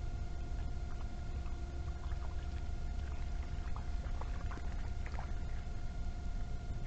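Trail-camera background noise: a steady low rumble with a thin, steady hum above it and a few faint ticks in the middle.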